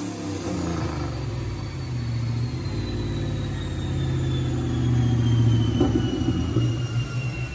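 Turbocharged 5.2-litre V8 Dodge Dakota running on a chassis dyno as it slows after a pull: a steady low engine note under a high whine that slides slowly down in pitch.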